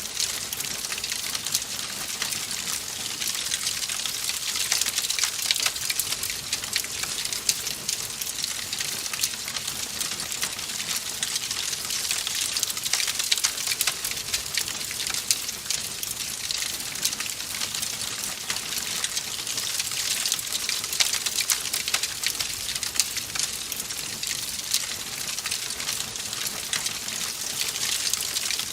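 Wood fire crackling in a fireplace: a dense, steady run of small pops and snaps over a constant hiss.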